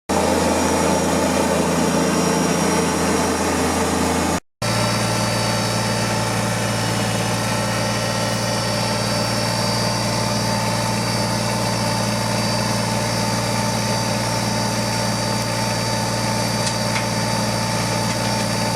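Kubota tractor engine running steadily at an even pitch, breaking off for a moment about four and a half seconds in and then carrying on.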